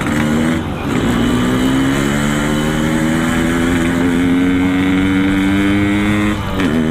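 Yamaha RX-King two-stroke single running through an aftermarket Boban C33 exhaust while riding, its pitch climbing slowly under acceleration. The note dips briefly for a gear change about a second in and again near the end, then climbs on.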